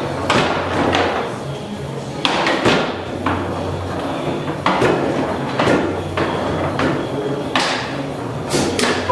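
Foosball game in play: sharp knocks and cracks as the ball is struck by the table's players and hits the walls, with rods knocking, roughly one hit a second.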